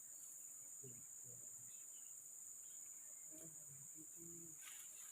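Steady high-pitched chorus of forest insects such as crickets, a continuous shrill drone, faint overall.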